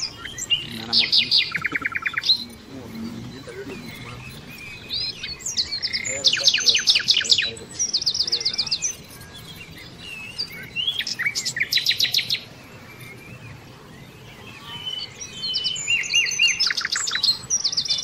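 Small birds chirping and singing in four bouts of rapid trills, about ten high notes a second, each bout lasting a second or two with quieter gaps between.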